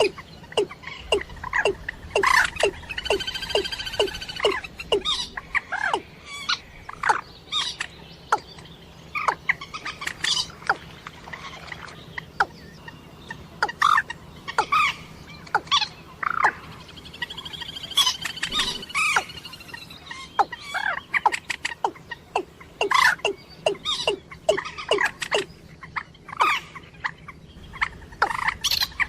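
Rail calls from a moorhen and watercock call recording: quick series of sharp call notes, several a second, broken by a longer drawn-out call about three seconds in and again near eighteen seconds.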